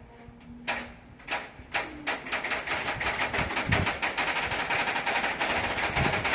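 Train wheels clattering over rail joints and points as wagons roll through the station: a few single knocks at first, then from about two seconds in a fast, continuous clatter.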